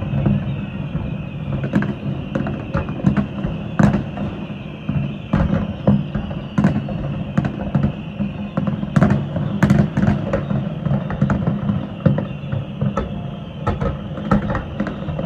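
Fireworks going off in a quick, irregular run of sharp bangs and pops, one to three a second, over a steady low rumble.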